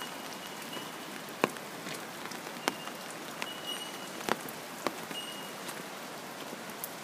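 Steady rain falling on floodwater and wet ground: an even hiss, broken by a handful of sharp taps from heavier drops.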